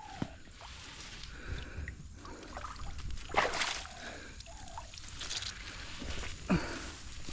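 River water sloshing and splashing, with a louder splash about three and a half seconds in and another a little over six seconds in.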